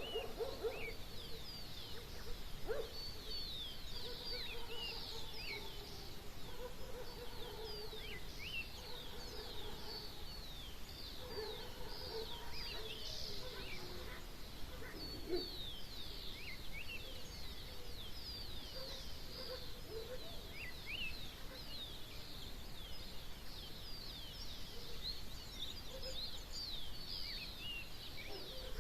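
Dawn chorus of many birds, with rapid high chirps and trills overlapping throughout, and lower, steadier calls from another bird in the first half.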